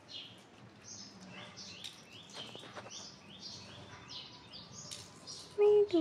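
Birds chirping: a steady run of short, high, falling chirps, two or three a second. Near the end a much louder, brief pitched call cuts in.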